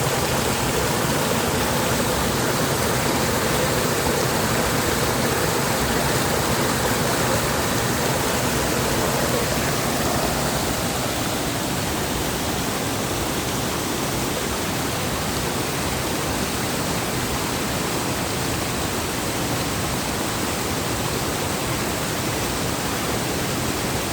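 Steady rushing of water in a mountain valley stream, a little quieter from about ten seconds in.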